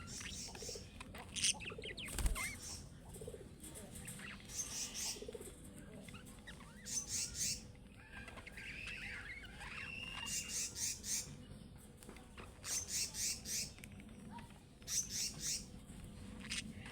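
Budgerigars chirping and warbling: bursts of rapid, high chirps come every couple of seconds, with a softer, wavering warble in between, loudest about a third to two thirds of the way through.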